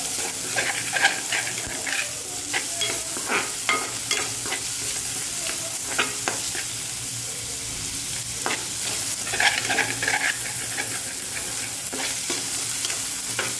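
Chopped onion, green chillies and ginger-garlic paste sizzling in hot oil in an aluminium pan, with a steady hiss, while a spatula is stirred through them, scraping and knocking against the pan bottom in quick irregular strokes.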